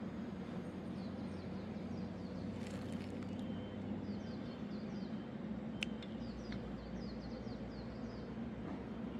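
Outdoor ambience: a bird repeating short chirping calls in quick runs over a steady low background hum, with one sharp click about six seconds in.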